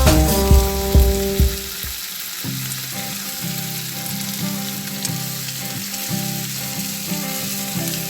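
Food sizzling as it fries in hot oil, a steady hiss, with background music playing under it; the music's heavy bass drops out about two seconds in.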